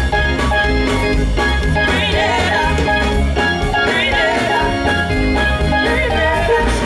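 Live calypso band playing an instrumental passage with a steady beat, a bright melody and wavering vocal-like lines over it.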